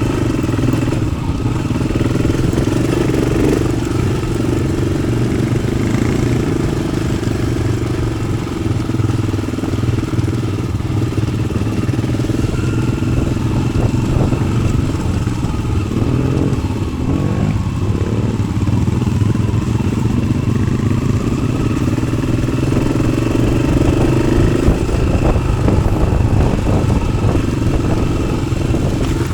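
Yamaha XT600's air-cooled single-cylinder four-stroke engine, fitted with an Arrow exhaust, running steadily as the bike is ridden, its note rising and falling only a little.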